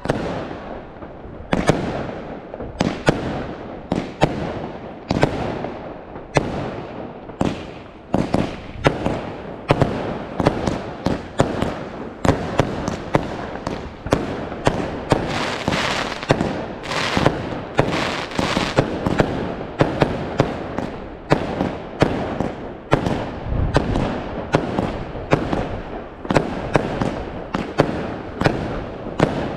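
Fireworks going off in a dense run of sharp bangs, about one to two a second, with continuous crackling between them.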